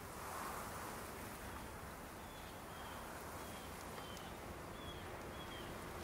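Faint outdoor background hiss with a small bird repeating a short, high chirp over and over. A faint low steady hum comes in past the middle.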